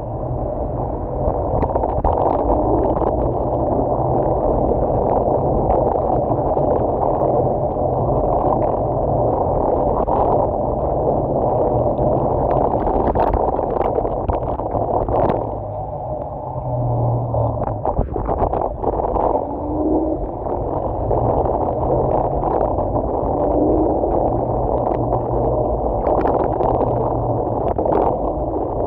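Muffled rushing wind and road noise from riding an electric scooter, with a low hum coming and going and a brief drop in level about halfway through.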